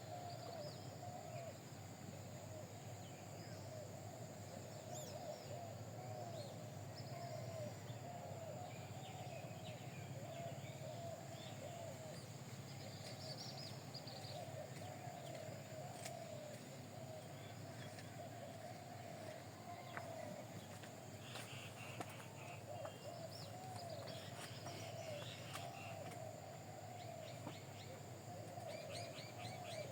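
Birds calling without pause: a steady wavering chatter of low calls throughout, with short high chirps scattered over it, thickest in the second half.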